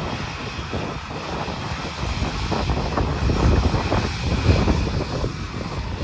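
Low, steady rumble of jet airliner engines, with gusty wind buffeting the microphone.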